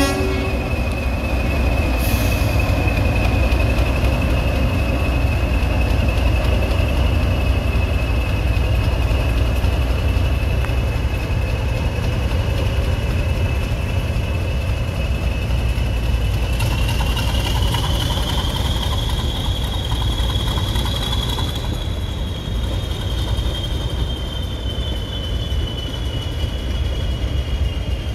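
Diesel train on the move: a steady low rumble under a continuous high whine, which rises in pitch about two-thirds of the way through and then eases back slightly.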